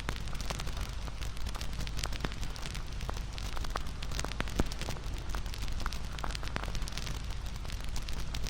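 Wood bonfire burning: a steady low rumble of flames under irregular crackles and pops, with one louder pop about four and a half seconds in.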